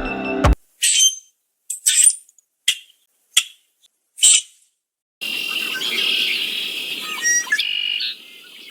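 A bird calling: first a series of five or six short, sharp, high calls with gaps between them, then from about five seconds in a continuous chattering call with quick up-and-down glides, dropping in loudness near the end.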